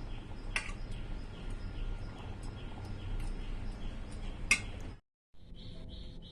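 Small birds chirping over and over: a short call falling in pitch about twice a second, with two sharp clicks. After a cut about five seconds in, a different chirp repeats about three times a second.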